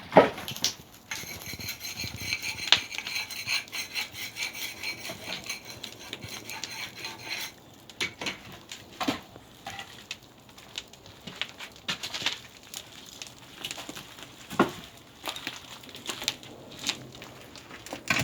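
Scraping and knocking of hard objects: a steady scraping with a faint ringing edge for the first six or seven seconds, then irregular sharp knocks and clicks.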